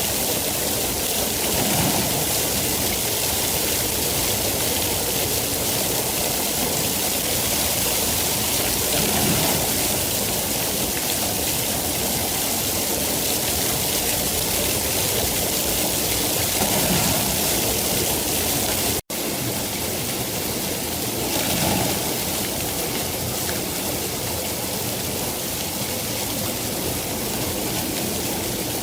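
Steady heavy rain, a dense even hiss, with a split-second dropout about two-thirds of the way through.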